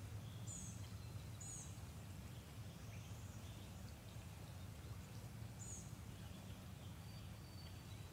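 Quiet creekside outdoor ambience: a bird gives short, high, downward-sliding chirps, three in all, over a faint steady low background rumble.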